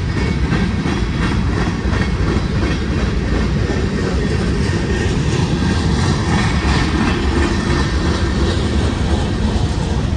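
Freight cars of a Union Pacific manifest train rolling past, a steady loud rumble with the clickety-clack of steel wheels over the rail.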